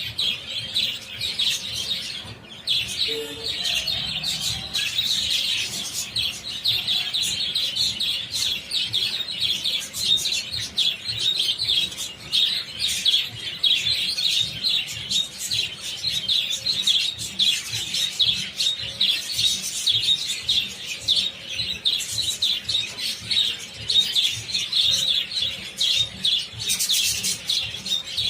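A large flock of budgerigars chattering and chirping continuously, many small overlapping calls.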